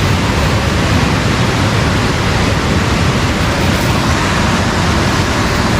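Steady rush of fast-flowing water, an even noise with a deep rumble that does not change.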